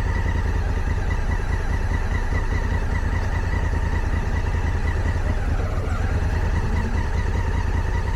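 Motorcycle engine running steadily while riding at low speed, with a deep rumble and a faint steady whine above it.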